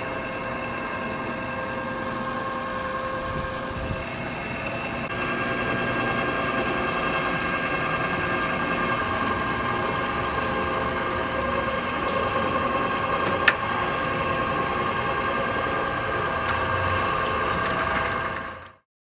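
Motorised roll-down shutter running, a steady mechanical hum with several held tones, which stops near the end.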